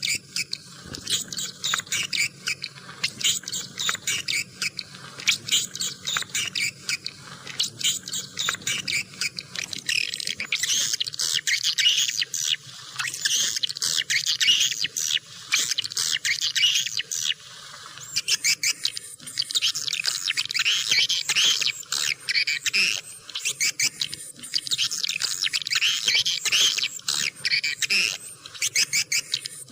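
A flock of swiftlets twittering: a dense, unbroken stream of rapid, high chirps. This is a swiftlet lure call, played to draw the birds in to roost and nest.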